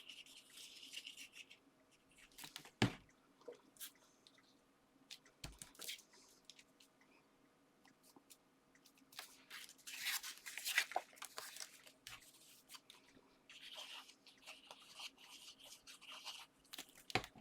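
Quiet rustling, scraping and light tapping of paper and card being handled and stuck down on a desk, with two soft knocks about three and five and a half seconds in.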